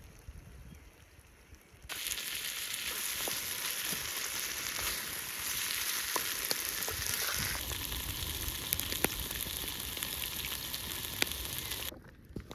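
Chicken frying over a campfire: a steady sizzle with scattered sharp pops. It starts suddenly about two seconds in and cuts off just before the end. Before it there is only a faint low rumble.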